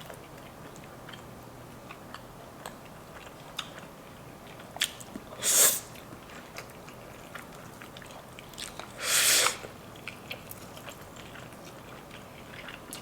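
Close-up chewing and biting of a lemon pepper boneless chicken wing, with many small wet clicks. Two louder airy rushes cut in, a short one about halfway through and a longer one about nine seconds in.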